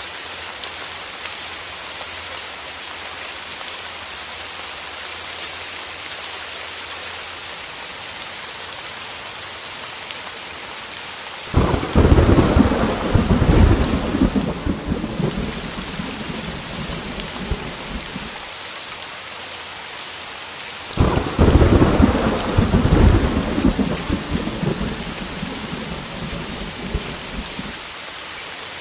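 Heavy rain falling steadily on a window. Two thunderclaps break in, one about a third of the way through and one about two-thirds through. Each starts sharply and rumbles on for several seconds before dying back into the rain.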